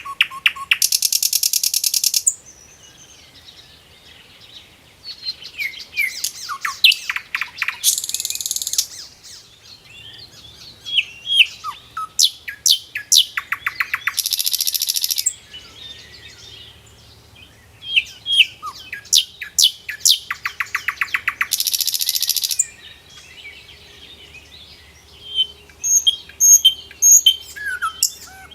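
Small songbirds singing: bouts of quick chirps and sweeping notes alternating with fast, buzzy trills of a second or two, repeated every few seconds.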